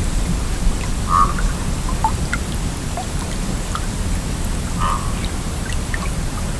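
Shallow stream flowing steadily, with small gurgles and plops of water scattered throughout.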